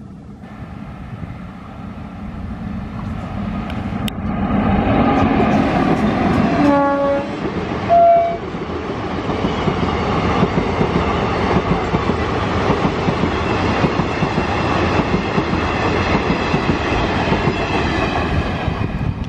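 Indian Railways WAP-5 electric locomotive hauling a passenger train past at speed: a rising rumble as it approaches, two short horn blasts about seven and eight seconds in, the second the loudest, then the steady rushing clatter of the coaches' wheels on the track.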